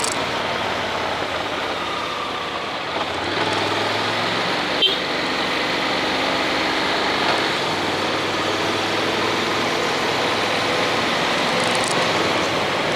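Honda X-ADV's parallel-twin engine running under way, under a steady rush of wind and road noise, with a short click about five seconds in.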